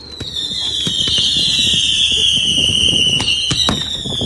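Whistling fireworks: a long, loud whistle slowly falling in pitch, with a few sharp bangs about three seconds in and another falling whistle starting near the end.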